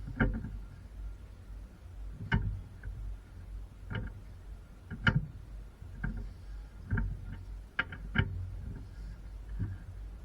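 Irregular sharp knocks and clinks, roughly one a second, some ringing briefly, like hand tools and metal suspension parts being worked on or set down, over a low steady hum.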